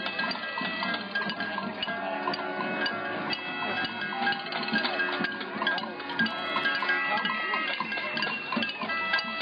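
Protest crowd at a noise demonstration making a steady din: many overlapping pitched sounds, some gliding, from voices, noisemakers and music, with scattered clatter.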